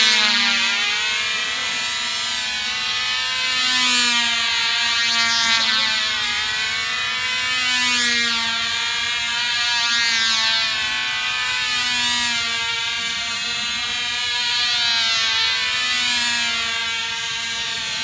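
Tiny Cox glow engine of a model airplane running flat out: a high, buzzing whine that swells and fades in pitch and loudness every few seconds.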